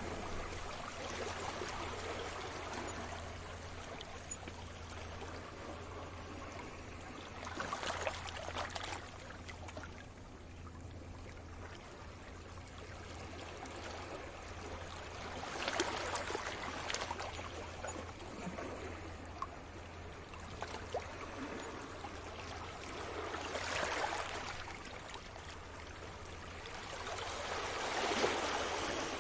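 Sea waves washing onto a shore: a steady wash of water with a wave surging in and falling back about every eight seconds.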